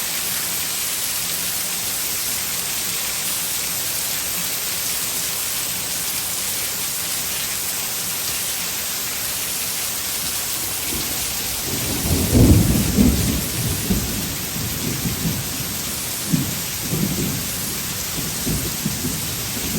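Heavy tropical rain pouring down steadily. About twelve seconds in, irregular low rumbling bursts begin, loudest just after they start and recurring until the end.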